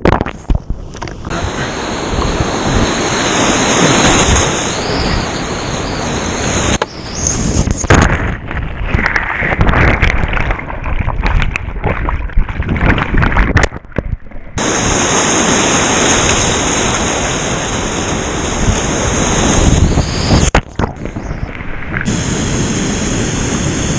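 Rushing whitewater and wind buffeting the microphone, loud and steady, with a few sudden dips where the sound goes muffled for about a second.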